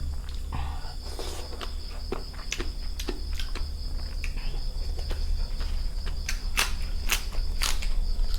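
Crickets chirring steadily in the background, with a string of short sharp clicks and crunches that come more often in the second half.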